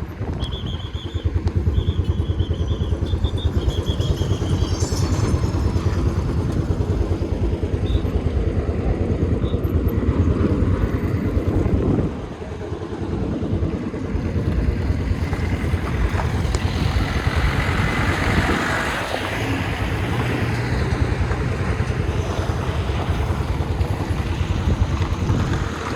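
A vehicle on the move: a steady rumble of engine and road noise, with a few short high-pitched tones in the first few seconds and a brief drop in level about halfway through.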